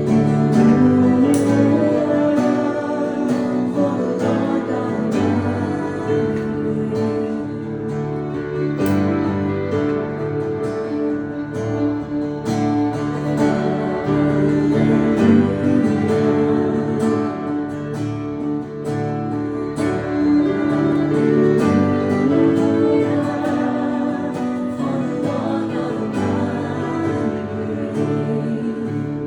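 Live acoustic worship song: steadily strummed acoustic guitar with singing.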